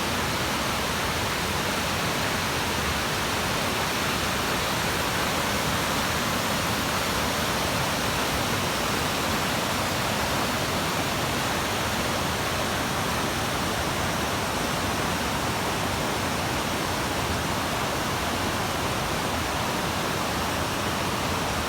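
Waterfall on a mountain stream: a steady, even rush of falling water with no breaks.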